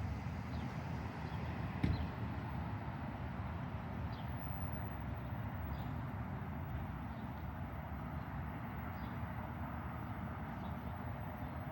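Steady outdoor background rumble with a few faint bird chirps, and one sharp click about two seconds in.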